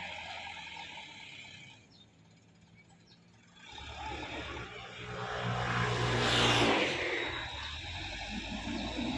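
Dump truck engine running, dropping away briefly about two seconds in, then picking up again and surging loudest about six seconds in.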